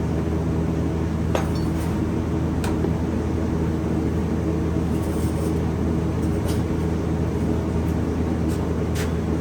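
A steady machine hum of several low, even tones, with a few light metallic clinks and ticks scattered through it.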